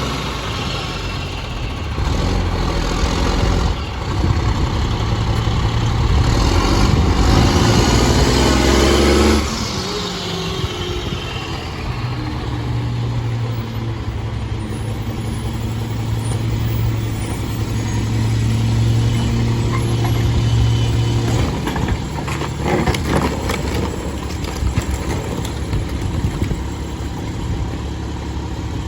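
Mack LE garbage truck's diesel engine running at raised revs, then falling in pitch about nine seconds in and settling to a lower, steady run. A few knocks and clatters come later.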